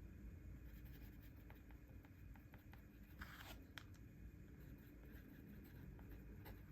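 Faint journaling sounds: pen or stationery on paper, with small scattered taps and a short rustling scrape about three seconds in, over a low steady room hum.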